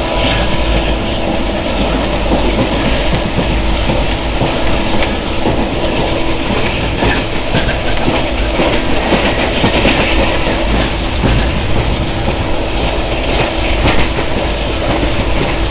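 Indian Railways passenger coach running on the track, heard from inside through the open barred window: a steady rumble with wheels clattering over the rails and scattered sharp clicks.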